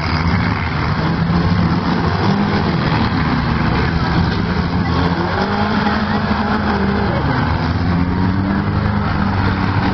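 Several demolition derby cars' engines running and revving together, their pitch rising and falling as the cars manoeuvre and push against each other in the dirt.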